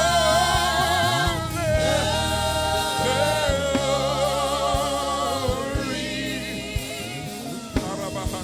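Live gospel worship music: held, wavering sung notes over steady sustained band chords and a bass line, with a few drum hits near the end.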